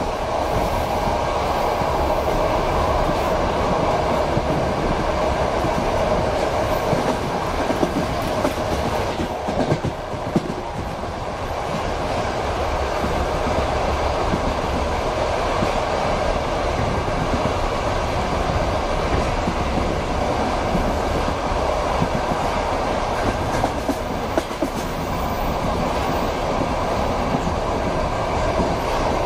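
Passenger train running at speed, heard from a coach window: a steady rumble of wheels on rails with the clickety-clack of the rail joints.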